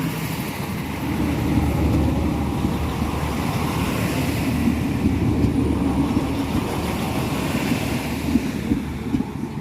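NIR 3000-class diesel multiple unit running into the platform: a steady diesel rumble and hum with rolling noise.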